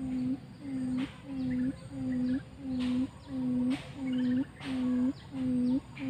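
A quail decoy (pikatan) calling: a steady series of low hoots, a little more than one a second, each note dipping slightly and rising again.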